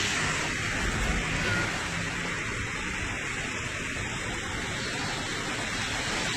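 Heavy rain pouring down in a storm, a steady dense hiss.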